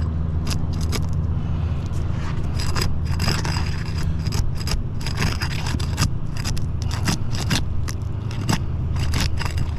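Roof shingles being pried up and torn by hand, a run of irregular scraping, crackling and tearing sounds; the shingles are so thin that they tear as they are lifted. A steady low hum runs underneath.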